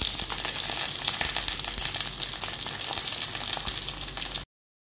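Shallots, curry leaves and green chillies sizzling and crackling in hot coconut oil in a non-stick pan as they are tipped in from a steel plate, with small ticks of pieces landing. The sound cuts off abruptly near the end.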